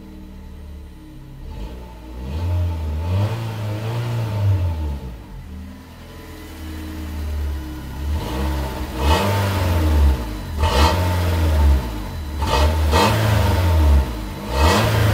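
Fiat Punto Mk2's 1.2-litre 8-valve four-cylinder petrol engine being revved: one slower rise and fall in the first half, then several quick, sharp blips of the throttle in the second half.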